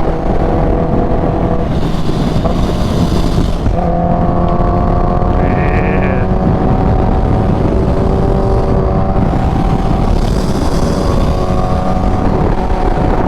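Kawasaki Ninja H2's supercharged inline-four engine running at a steady cruise, with wind rushing over the helmet microphone. The engine's pitch shifts slightly about four seconds in.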